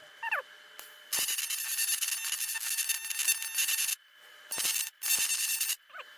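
TIG welding arc on a cast-iron engine block: a hissing buzz with a steady high tone, struck with a click about a second in and held for about three seconds, then restarted for two short bursts. A few bird chirps come just before the arc and near the end.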